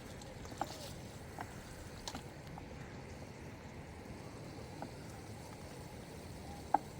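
A steady low rushing noise with a few scattered short, sharp knocks; the loudest knock comes near the end.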